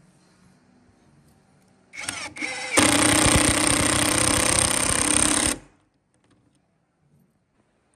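An electric power tool's motor spins up with a rising whine, runs loud and steady for about three seconds, then cuts off suddenly.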